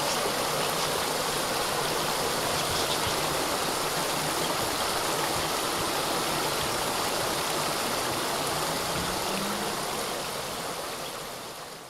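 Small waterfall: water rushing and splashing in a steady rush, fading out near the end.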